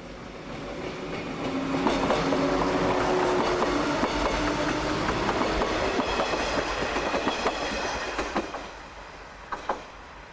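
Electric multiple-unit train passing close by, its wheels clacking over the rail joints. It builds up about a second in, holds for several seconds and fades near the end.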